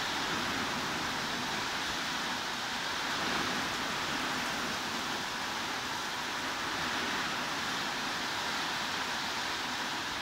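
Heavy rain falling steadily, an even hiss with no separate drops or thunder.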